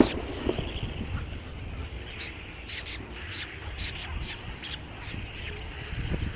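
Many small birds chirping, short high calls in quick succession from several birds at once, over a steady low rumble.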